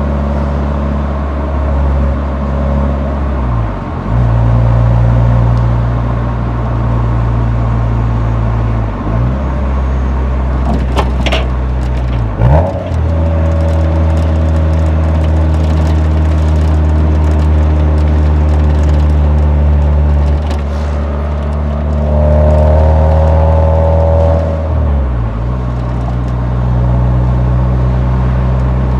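Nissan 180SX exhaust note from the muffler while driving, a steady engine drone that dips and settles at a new pitch about four times as the revs change. A brief run of sharp crackles comes just before the middle.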